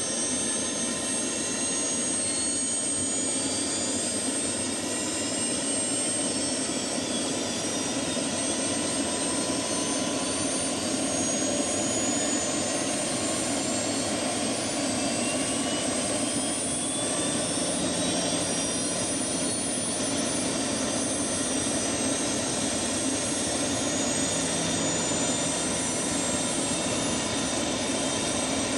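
Turbine helicopters running on the ground: a steady turboshaft whine with a high, constant tone over the rotor noise, and fainter whistling tones that slowly shift in pitch.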